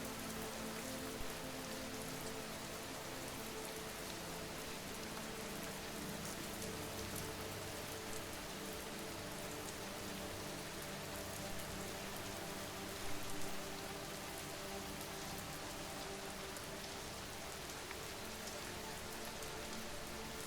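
Recorded rain ambience: steady rain falling on a surface, an even hiss with scattered drops. A few faint steady tones sit underneath, and a short cluster of louder drops comes about 13 seconds in.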